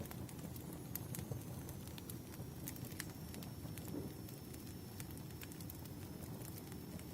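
Wood fire crackling: a steady low rumble of burning logs with scattered sharp pops, and a faint high whistle held through most of it.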